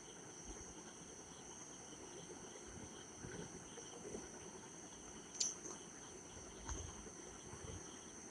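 Faint sizzle of garlic and onion paste frying in mustard oil in a kadai, under a steady high cricket-like trill. A single sharp metal clink about five seconds in, with a few softer knocks, as a steel bowl is brought to the pan.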